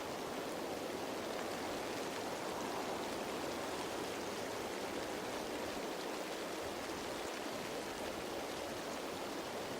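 Steady rain falling on leaves: an even patter with a dense hiss, fine drops ticking faintly above it.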